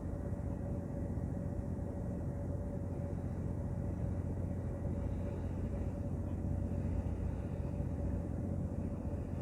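Ship's engine running steadily: a continuous low rumble with a constant higher hum above it.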